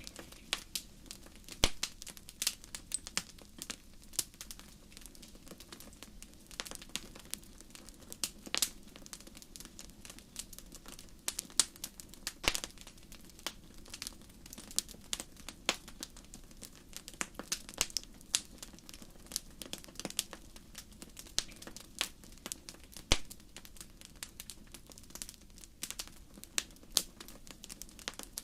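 Crackling fire: irregular sharp snaps and pops, several a second, over a faint steady low hum.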